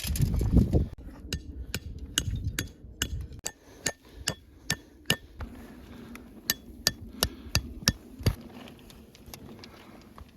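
Repeated hammer strikes with a metallic ring, two to three a second, with a short pause in the middle, typical of a tent stake being driven in. A low rumbling handling noise comes first, before the strikes begin about a second in.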